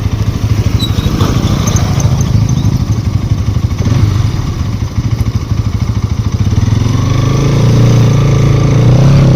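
Motorcycle engine running while riding, a steady rapid pulse that rises in pitch as it speeds up over the last couple of seconds.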